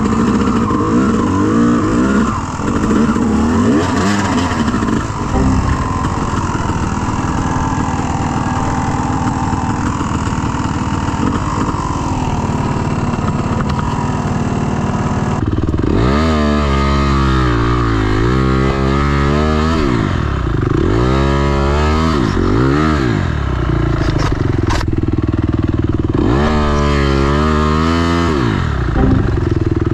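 Dirt bike engine running under the rider, then from about halfway through revving up and falling back again and again, four or five times.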